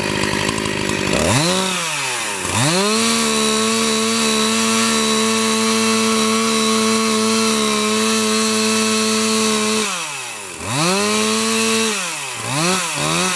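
Chainsaw engine idling, then revved up about a second in and held at full throttle at a steady pitch for about seven seconds. It drops back, revs again, and is blipped twice near the end.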